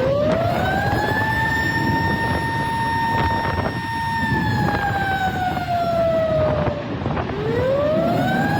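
A siren winding up in pitch for about a second and a half, holding a steady tone, then sliding down over a couple of seconds. It cuts off near the end and winds up again. A steady rumble of background noise runs beneath it.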